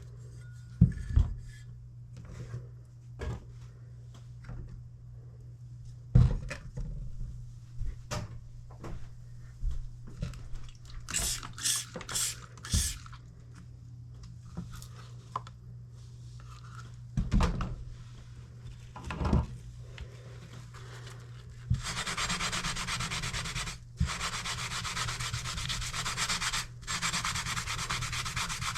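Scattered knocks and handling clicks, with four short hissing bursts close together about halfway through. About three-quarters of the way in, a kitchen knife blade starts being ground back and forth on a sharpening stone: a steady, dense rubbing that breaks off briefly twice.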